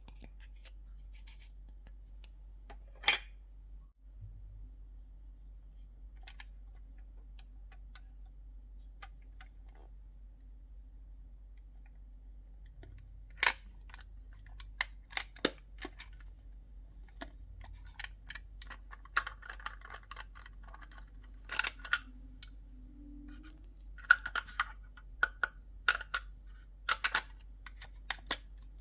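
Small plastic toy cooking-set pieces being handled: scattered clicks and taps, sparse at first and busier in the second half, with a short scraping rustle near the middle.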